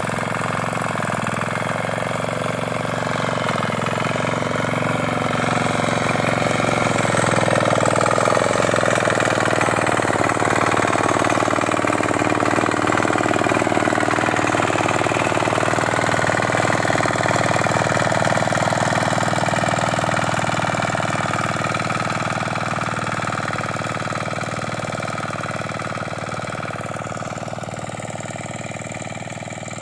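Single-cylinder 6 hp diesel engine of a power weeder running steadily while intercultivating. It grows louder over the first several seconds, then fades gradually toward the end.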